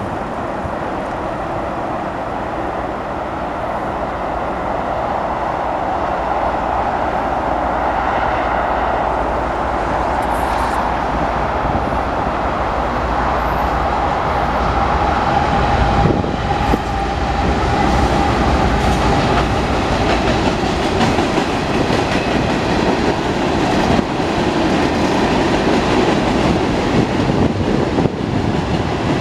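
Union Pacific freight train with several diesel locomotives coming closer and getting louder, then its freight cars rolling past, wheels clacking over the rail joints.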